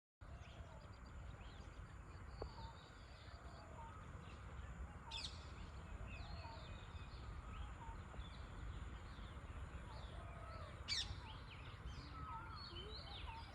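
Several birds calling: repeated short whistled notes and chirps, with a sharp high call about five seconds in and another near eleven seconds, over a steady low rumble.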